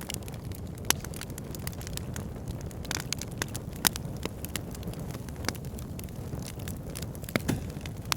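Fire pit burning, with a steady low rumble under irregular sharp crackles and pops, the loudest about one, four and seven and a half seconds in.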